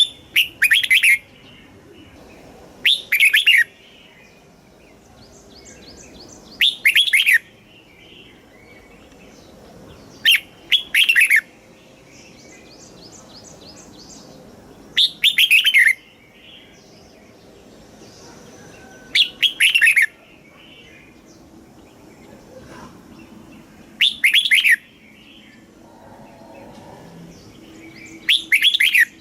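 Red-whiskered bulbul singing loud, short song phrases, about one every four seconds, eight in all. Fainter chirps and trills come between the phrases.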